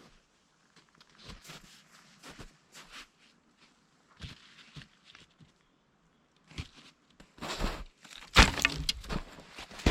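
Irregular cracking and crunching sounds, sparse and faint at first, then a louder cluster of crunches and cracks about two-thirds of the way in.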